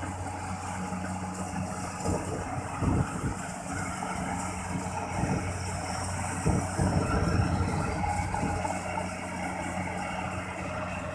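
Kubota rice combine harvester's engine running steadily at work, with uneven louder low rumbles in the middle of the stretch.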